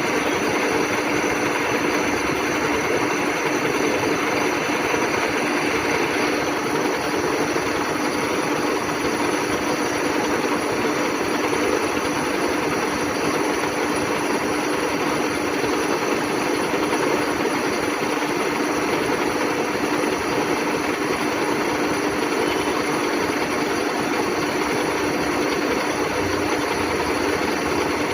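WMW Heckert GFLV 250 x 2000 thread milling machine running under power: a steady mechanical drive noise with a constant hum. A higher hiss in the mix stops about six seconds in.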